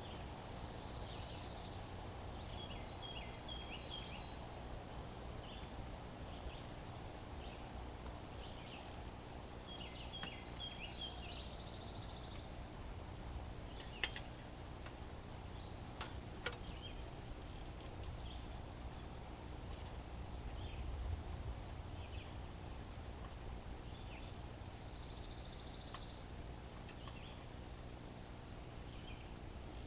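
Forest ambience: birds calling now and then, short chirps and calls repeating a few times, over a steady low background. A few sharp clicks stand out, the loudest about halfway through.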